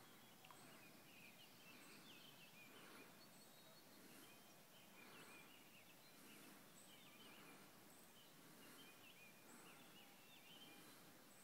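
Faint birdsong: many short chirps and whistles from several birds over a steady background hiss.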